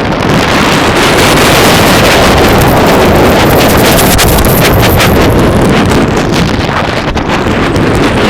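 Roller coaster train running at speed along the track: loud wind rushing over the microphone, with the rattle and clatter of the cars.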